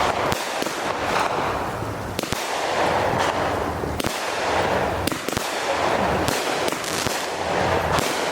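Phantom consumer fireworks going off in quick succession: sharp bangs about once a second over a continuous noisy rush.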